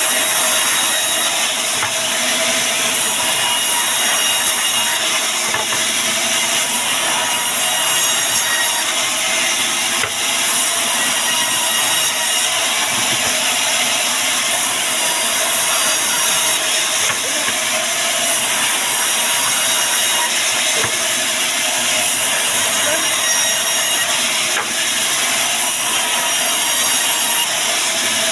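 Band sawmill cutting through a log: a steady, continuous hiss of the blade in the wood, with a faint steady whine of the machine underneath.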